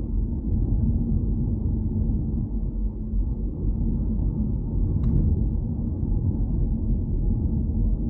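Steady low rumble of a car being driven: road and engine noise, with a faint steady hum. A single short click about five seconds in.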